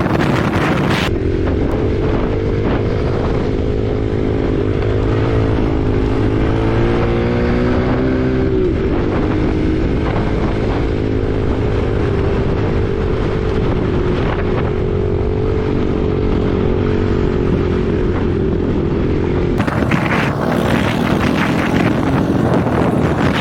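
Dirt bike engine running at a fairly steady pitch while riding, dipping briefly about eight seconds in, with wind buffeting the microphone.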